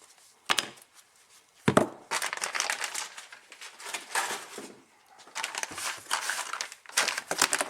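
Packaging crinkling and crackling as it is handled, in two long stretches. Two sharp knocks come in the first two seconds.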